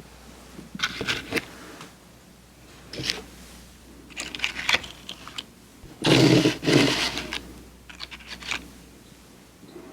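Close-miked crunching and crackling of crunchy candy being bitten and chewed, in several short bursts; the loudest comes about six seconds in.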